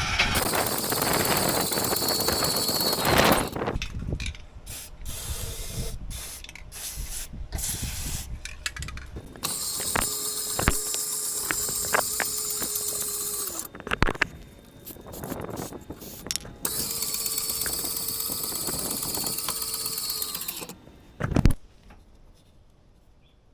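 Fifth wheel camper's landing gear, its drive screw freshly greased, run three times for a few seconds each: a steady motor hum and whine that drops in pitch as it stops, with clicks in between and a single loud thump near the end. The running is now a lot quieter after the lubrication.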